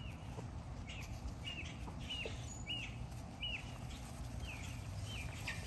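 A bird chirping over and over: short, high, hooked calls a little under two a second, over a low steady background hum.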